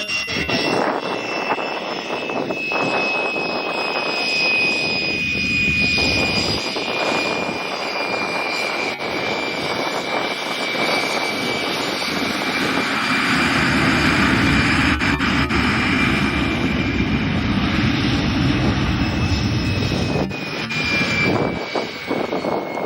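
MiG-17 jet fighters' Klimov VK-1 turbojets roaring in a flyby, with a high whine that slowly falls in pitch. The roar swells a little past halfway and eases off near the end.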